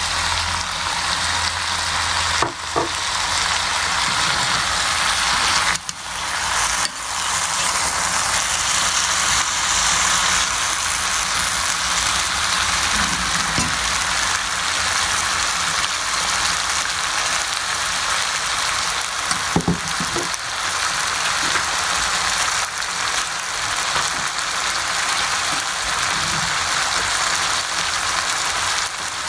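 Food frying in a hot pan: a steady sizzling hiss, broken by a few short knocks.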